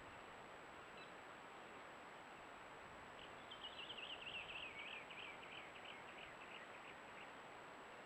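Faint steady hiss with a thin high electronic whine; from about three seconds in a bird gives a rapid, high trilling series of notes that loosens into separate notes and fades out about four seconds later. A single faint high note about a second in.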